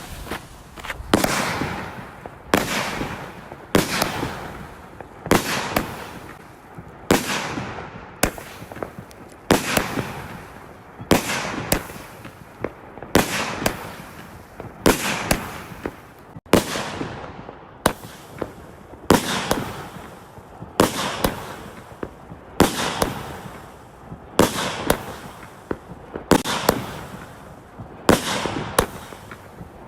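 A firework cake going off: a steady run of loud bangs about every one and a half seconds, each followed by a fading hiss.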